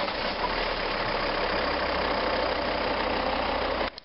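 Volvo S60 D5's 2.4-litre five-cylinder turbodiesel idling just after start-up, heard with the bonnet open. The level drops suddenly near the end.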